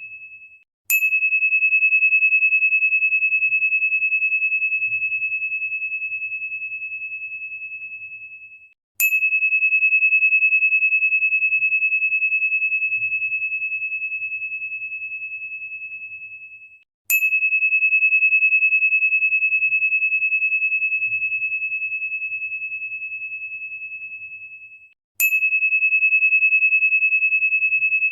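A pure, high crystal tone struck four times about eight seconds apart. Each strike starts with a sharp ping, then one steady note rings on and fades slowly until the next strike.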